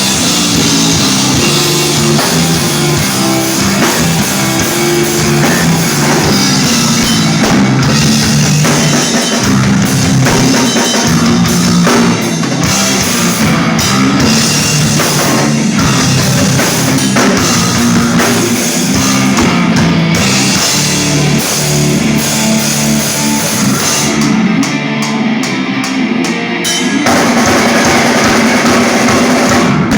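Rock band playing live: drum kit and electric guitars with no vocals, loud and dense. Near the end the band plays a few seconds of short stop-start hits, then comes back in full.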